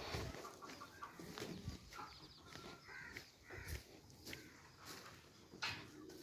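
A few short bird calls, faint, with a person's footsteps and handling thumps on dry dirt and straw.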